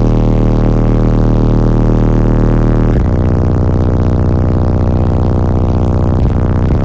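Three Sundown SALT-12 subwoofers in a ported box playing loud, sustained deep bass notes, shifting to a new note about three seconds in and again near the end.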